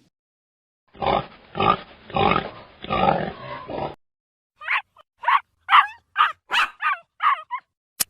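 A pig grunting, a series of low grunts for about three seconds. After a short pause comes a quick run of about eight short, higher-pitched calls from another animal.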